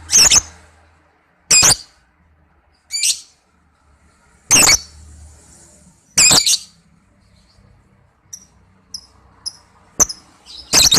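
Lovebird calling: short, shrill calls repeated at irregular intervals, about seven loud ones. A few faint high chirps come between them past the middle.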